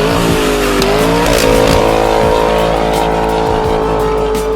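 2023 BMW X5 M Competition's twin-turbo V8 revved through a Street Demon cat-back performance exhaust. The pitch dips about a second in, climbs, holds steady at high revs for about three seconds, and drops off near the end.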